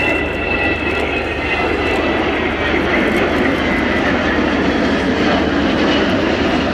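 Airbus A330 airliner flying past, its new-generation turbofan engines giving a steady roar with a high whine that slowly drops in pitch.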